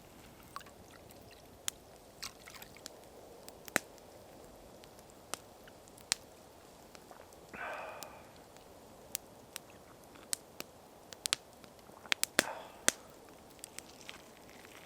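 Campfire crackling: sharp, irregular pops and snaps, with two brief louder rustling sounds, one about halfway through and one near the end.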